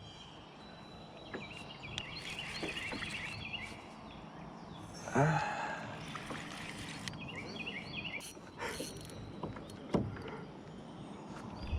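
Kayak handling noise while a hooked fish is fought: a louder rush of water or hull noise about five seconds in and a few sharp knocks, the strongest near the end. A faint rhythmic chirping comes and goes in the background.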